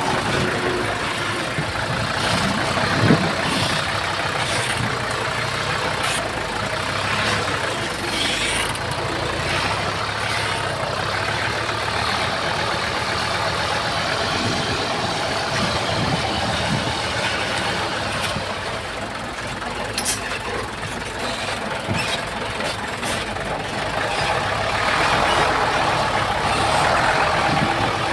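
Heavy earthmoving machinery, a bulldozer and dump trucks, running steadily, with a few short metallic knocks, the loudest about three seconds in.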